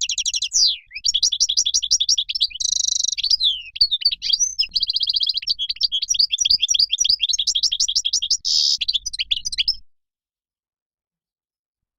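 European goldfinch song: fast, tumbling twitters and trills with buzzy stretches, which cut off abruptly about ten seconds in and leave dead silence.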